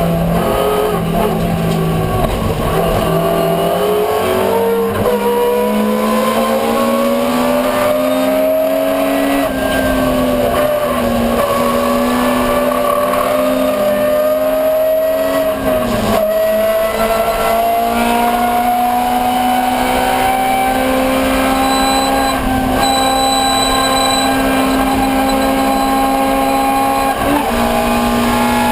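Ford Escort 1300GT's four-cylinder engine running hard under racing load, its pitch climbing slowly through long pulls. It dips briefly three times, about a third of the way in, at the halfway point and near the end.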